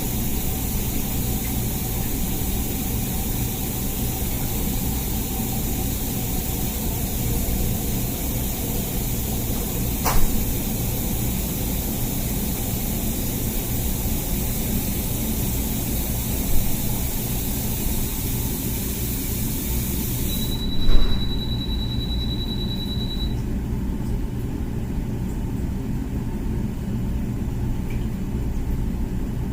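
Comfee dishwasher running its wash cycle: a steady hum of the pump with water spraying inside. A few soft knocks, and about two-thirds of the way through the hiss on top cuts off suddenly while a thin high tone sounds for about three seconds.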